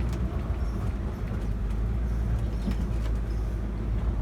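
Safari ride truck's engine running with a steady low drone, heard from aboard the moving vehicle.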